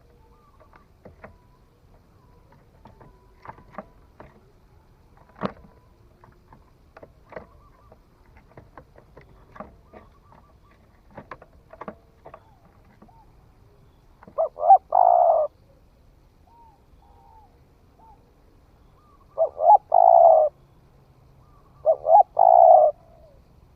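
Spotted dove newly come into song, cooing: three short coo phrases of about a second each in the second half, after a stretch of faint scattered clicks.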